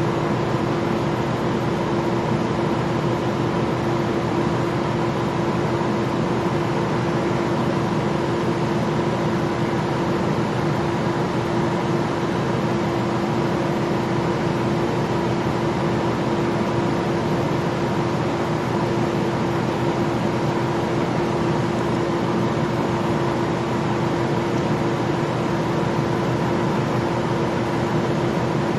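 Steady running noise inside a Gillig Low Floor transit bus: an even rumble of engine and drivetrain with a constant whine-like tone on top, holding the same level with no changes.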